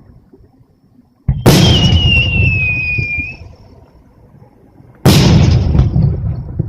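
Two large aerial firework shells bursting about three and a half seconds apart, each a loud bang followed by a rumbling echo that dies away. After the first burst a high whistle sounds for about two seconds, sliding slightly down in pitch.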